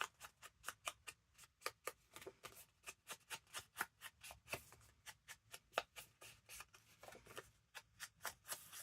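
A paper tag being inked by hand: quick, light dabbing taps of an ink applicator on paper, about four or five a second, keeping up throughout.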